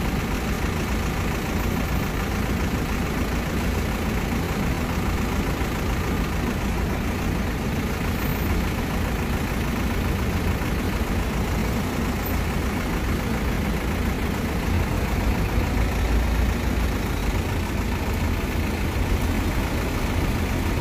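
Nissan diesel delivery truck engine idling steadily, a continuous low rumble.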